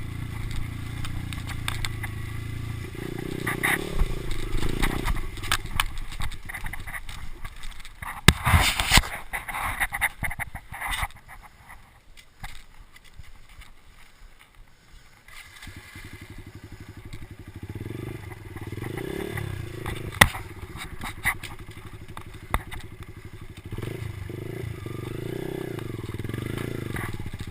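Kawasaki dirt bike engine running and revving on a motocross track, its pitch rising and falling with the throttle. About eight seconds in comes a loud burst of noise with sharp knocks, then the engine drops away for a few seconds before picking up again.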